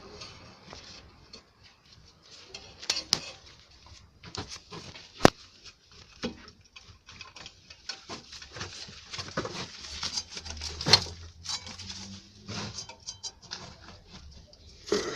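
Irregular clicks, taps and rustling of objects being handled, with a few sharper knocks about 3, 5 and 11 seconds in.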